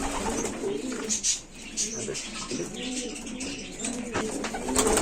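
Several racing (homing) pigeons cooing together in a loft, their low rolling coos overlapping continuously, with a few short clicks among them.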